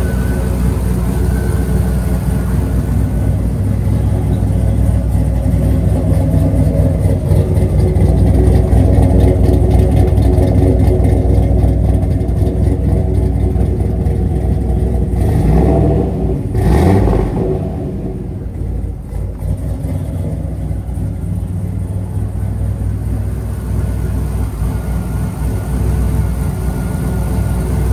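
1972 Chevrolet K5 Blazer engine running cold after a cold start, a steady low rumble that grows louder through the middle. A couple of short uneven bursts come around sixteen seconds in, and then it settles back to a quieter running.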